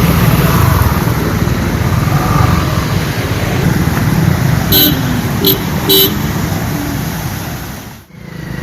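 Street traffic running steadily, with three short vehicle horn toots about five to six seconds in.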